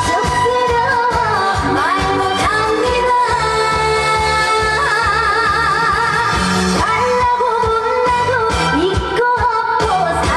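A female trot singer singing live with wide vibrato over a trot backing track with a steady beat.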